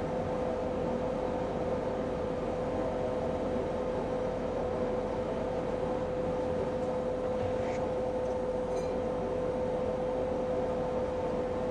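A forge running, a steady roar with a constant hum, as it heats a cast-steel lathe compound rest before welding.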